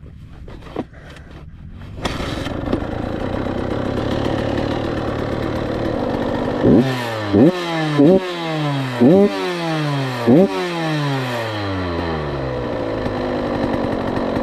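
KTM 85SX two-stroke dirt bike engine comes in abruptly about two seconds in and runs at idle. It then gets five quick throttle blips, each a sharp rise in pitch that falls away as the revs drop back, before settling to idle.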